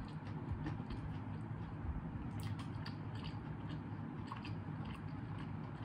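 A person chewing a mouthful of fried chicken burger with apple slices: soft, irregular small clicks and squishes of chewing over a steady low hum.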